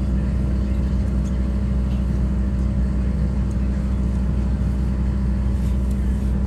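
Steady low rumble and hum inside a jet airliner's cabin on the ground before takeoff: engine and air-system noise.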